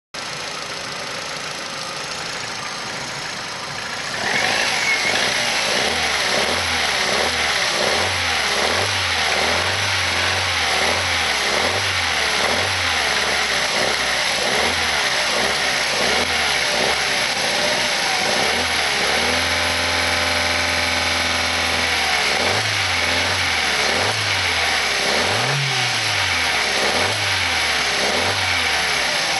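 Opel Astra H's 1.4-litre Z14XEP four-cylinder petrol engine running. It gets louder about four seconds in, then is revved up and down over and over, about once a second, with revs held steady for a few seconds past the middle before the blipping resumes.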